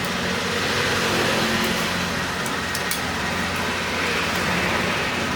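Steady background of motor-vehicle and traffic noise, with an engine hum running under it and a few faint light clicks.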